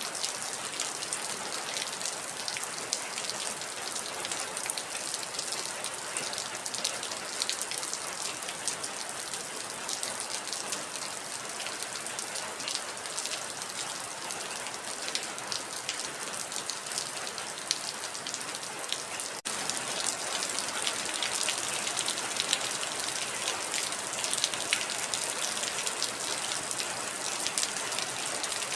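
Heavy rain: a steady hiss of water with dense individual drop ticks. There is a momentary break about two-thirds of the way through, after which the rain is slightly louder.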